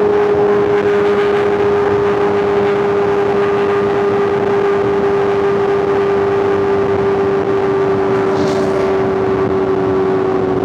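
Superbike inline-four engine and exhaust holding a steady high-rpm cruise at highway speed, its pitch easing down very slightly.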